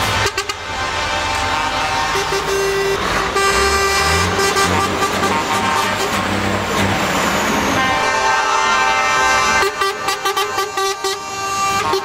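Truck air horns blowing over running truck engines, mostly held long tones, with a run of short quick toots near the end.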